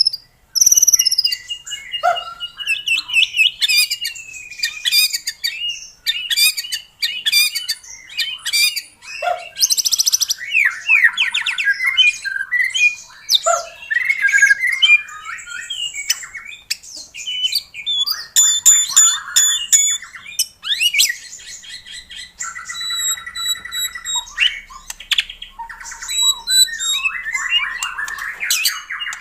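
White-rumped shama (murai batu) singing a loud, continuous, varied song: clear whistled notes and glides mixed with rapid trills and harsh chattering rattles.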